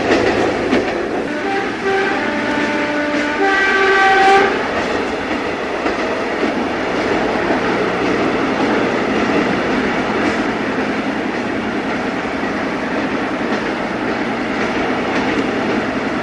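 Railway sound: a train running with a steady rumble, and a few short blasts of its chord whistle about one and a half to four and a half seconds in.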